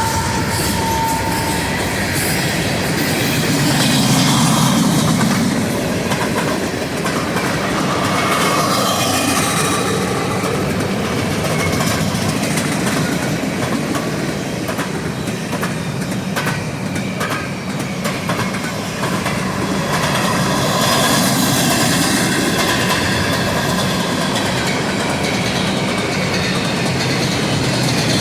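A freight train's cars rolling past with a steady rumble of steel wheels on rail, clicking over the rail joints and occasional faint wheel squeal.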